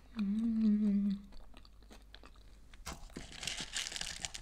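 A short closed-mouth 'mmm' hum. About three seconds in comes loud crunching as she chews a potato dumpling topped with crispy fried onion.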